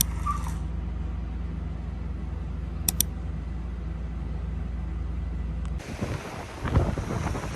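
Steady low drone of a car cabin on the move, with two brief high clicks. About six seconds in it cuts to wind buffeting the microphone, with surf behind it.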